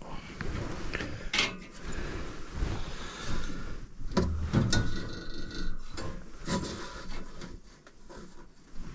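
Hands working on gas furnace parts: irregular scraping and rubbing with several sharp clanks and knocks.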